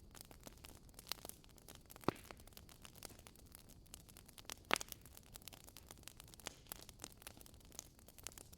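Wood fire burning in a fireplace: a steady soft hiss with constant small crackles, and two sharper pops about two seconds and four and a half seconds in.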